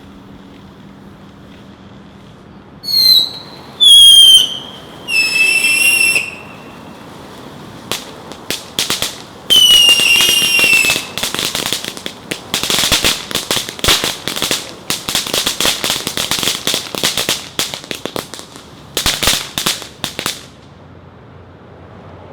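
Fireworks going off: four loud, shrill whistles, each lasting about a second, over the first half. Then a long run of rapid crackling and popping that stops about two seconds before the end.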